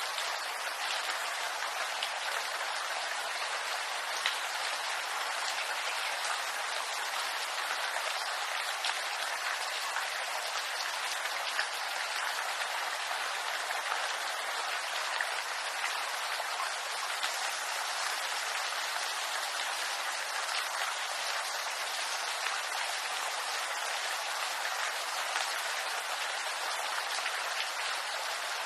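Steady rain falling on bamboo bushes, a dense patter of drops on the leaves.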